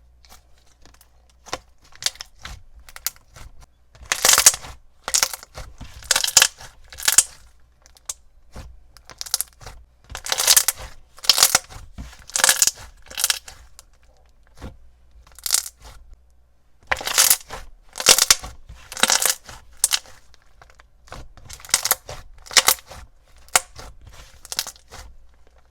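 Ultra-thick glossy slime with foam beads being stretched and squished, making bubble pops: clusters of quick, sharp pops with short quiet gaps between them.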